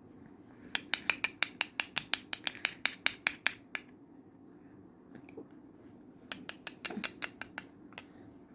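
Metal spoon clicking rapidly against a small bowl while scraping up mashed banana, in two quick runs of about six or seven clicks a second.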